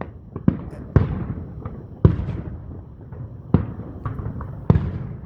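Fireworks going off in a string of loud booms, about five big ones at irregular intervals of one to one and a half seconds with a few smaller pops between, each bang trailing off in a rolling echo.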